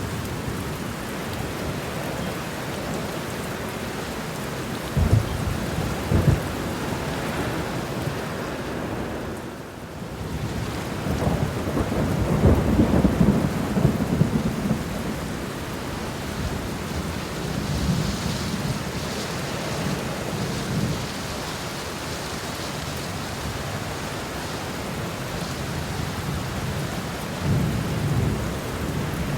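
Steady rain with rolling thunder: two sharp low claps about five and six seconds in, a longer rumble swelling around twelve to fourteen seconds in, and fainter rumbles later.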